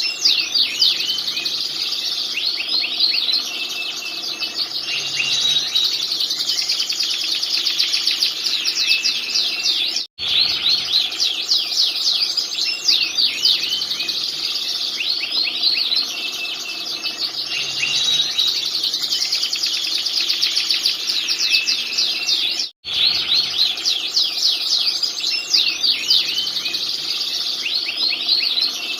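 Canary singing continuously: long, rapid high trills and chirping rolls, a masteran tutor song meant for training other songbirds. The song cuts out completely twice for a split second, about a third and three quarters of the way through.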